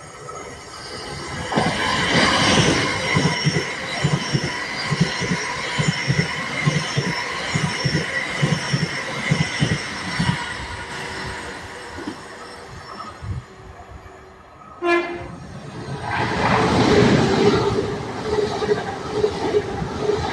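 A train passing, its wheels clicking over rail joints in a quick, even rhythm, with a steady high ringing over the top. About fifteen seconds in comes a short, sharp sound, then a second loud rush of train noise.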